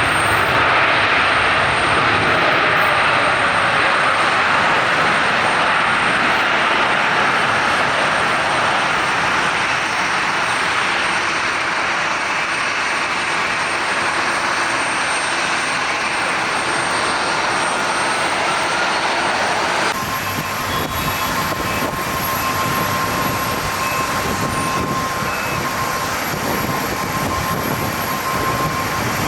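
Jet airliner engines at close range, a loud rushing noise that slowly fades. About two-thirds of the way through it cuts abruptly to a quieter engine rumble with a steady high whine.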